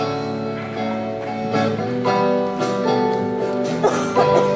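Acoustic guitar strumming and letting chords ring, changing chord every second or so, as the instrumental intro before the vocals.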